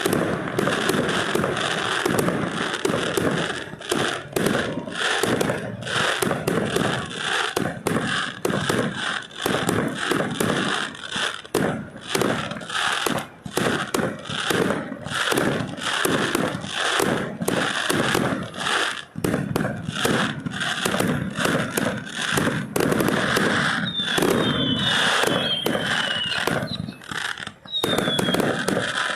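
Fireworks going off in a rapid, continuous barrage of bangs and crackles. Near the end come a few short, falling whistles.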